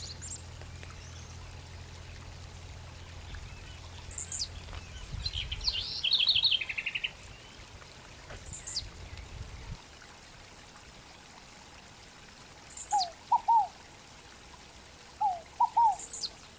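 Wild birds calling: short, high, falling whistles and quick trills in the first half, then from about two thirds in, short lower whistled notes in pairs and threes. A faint steady trickle of water runs underneath.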